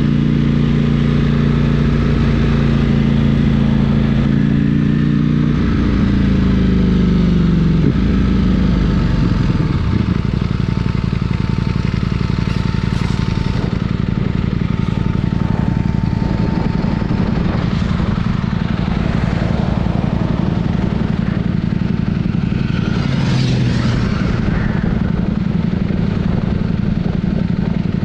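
Sport motorcycle engine running at a steady, even note. About six seconds in, the pitch falls over a couple of seconds as it slows, then it runs on at a lower steady drone.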